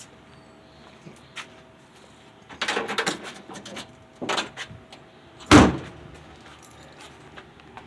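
Clattering handling sounds, then one heavy slam about five and a half seconds in, like a car door being shut.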